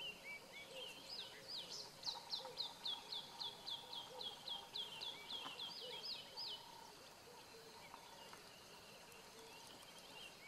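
A bird singing a fast run of about twenty short, high, falling notes, about four a second, for some five seconds, with scattered softer calls before and after.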